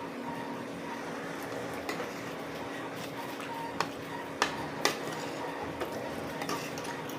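Cutlery clinking and scraping against a plate or bowl while eating, with a few sharp clinks, the loudest two close together a little past the middle, over a steady faint hum.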